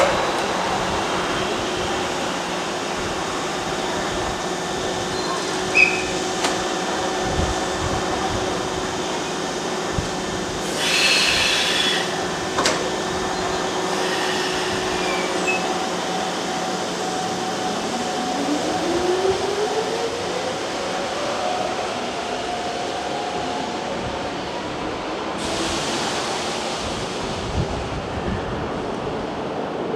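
Hanshin 5001-series electric commuter train pulling out of a station: a steady equipment hum, a burst of hissing air about 11 seconds in, then a rising motor whine as it accelerates away. A broad hiss comes in near the end.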